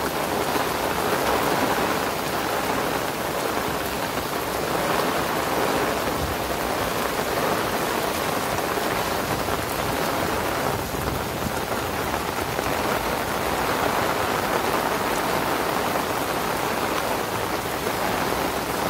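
Heavy rain falling steadily on grass and a wooden boardwalk: an even, unbroken hiss.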